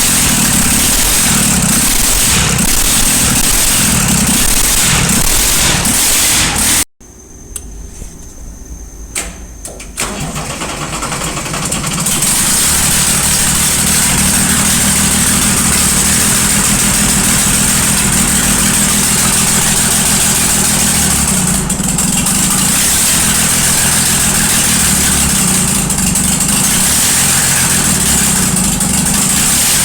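Ford 6000 Commander's six-cylinder diesel being cranked over by the starter in a rhythmic chug, after fitting a replacement injection pump. About ten seconds in it catches and then runs steadily.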